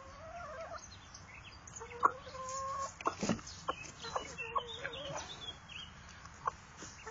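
Chickens clucking in short low calls, with a few higher chirps and several sharp taps in between.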